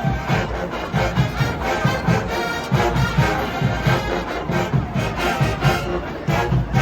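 HBCU show-style marching band playing, brass section carrying the tune over a steady drum beat.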